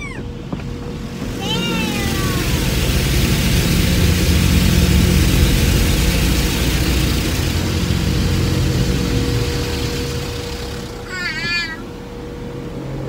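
Automatic car wash heard from inside the car: a spray-like noise with a low rumble and a steady hum. The noise swells to its loudest a few seconds in and then dies away. A child gives a high squeal near the start and again near the end.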